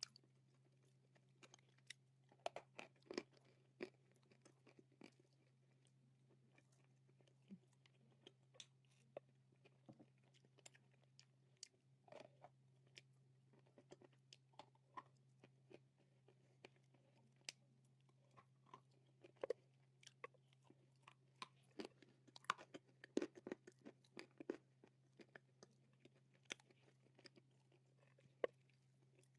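A person biting and chewing dry nakumatt clay close to the microphone: scattered sharp crunches, coming thicker in the second half, over a steady low hum.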